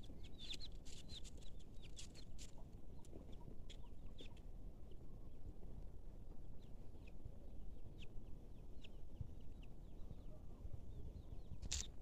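Birds chirping and peeping in short, high calls, busiest in the first few seconds and sparser after, over a steady low rumble.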